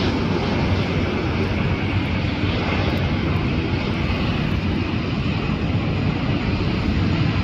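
Jet airliner engines, a steady roar with a strong low rumble that holds level throughout.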